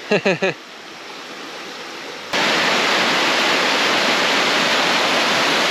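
Rushing stream water close to the microphone, a loud steady hiss-and-roar that cuts in abruptly a couple of seconds in.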